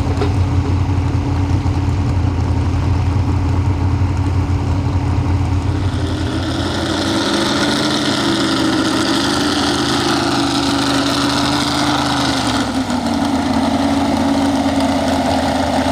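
Pro stock 4x4 pulling truck engine running loud and steady with a deep low note. About six seconds in it rises to a higher, harsher pitch and holds there for about six seconds, then drops back near the end.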